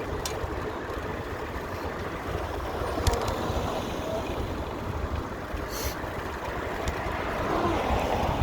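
Steady wind rumble on the microphone with outdoor background noise, and a single sharp click about three seconds in.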